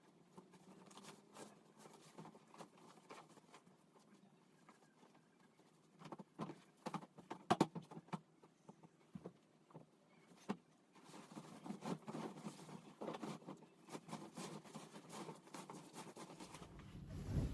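Faint, scattered light clicks and knocks of small household objects being handled and set down, growing busier about six seconds in and again in the second half.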